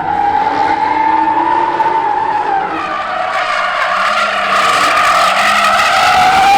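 Car tires squealing in one long, loud screech that wavers slowly in pitch.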